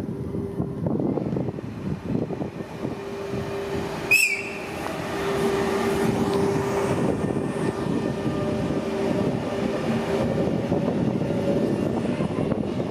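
Rodalies double-deck electric commuter train running along the platform, its wheels rumbling on the rails under a steady hum. About four seconds in there is a brief, sharp, high-pitched squeal.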